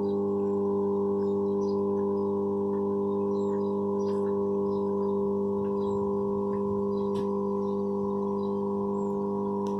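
Electrical transformer humming steadily: a deep, unchanging hum made of a stack of evenly spaced tones. Faint short high chirps sound here and there above it.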